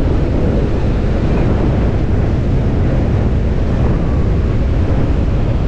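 Strong wind buffeting the microphone, a loud steady low rumble, with surf behind it.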